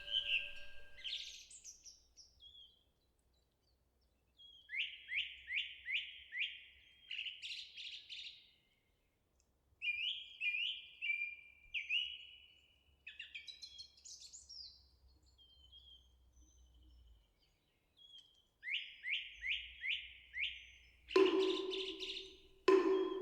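Small birds singing in short phrases of four or five quick, falling chirps, with silent gaps between the phrases. Near the end, two ringing knocks of a moktak, the hollow wooden temple fish.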